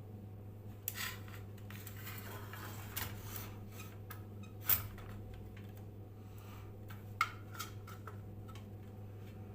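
Scattered light clicks, knocks and metallic clinks of small parts or tools being handled, with a short rubbing stretch, over a steady low electrical hum.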